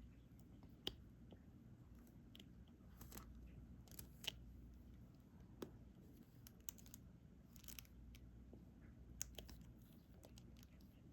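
Faint, scattered clicks and brief light scratches of a diamond-painting drill pen picking resin drills from a tray and pressing them onto the sticky canvas, over a low steady room hum.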